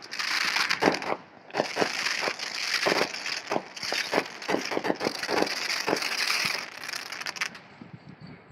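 Fireworks popping and crackling: a rapid run of sharp pops over a hissing crackle, which thins out near the end.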